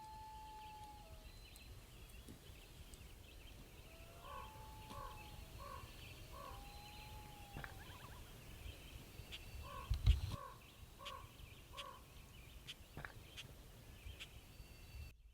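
A bird calling in long, clear whistled notes, then in runs of evenly repeated two-tone notes, over a faint high chatter. A single knock sounds about ten seconds in.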